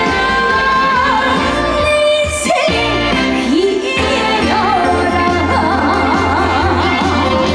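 A woman singing a trot song live with band accompaniment, holding a long note with a wide vibrato in the second half.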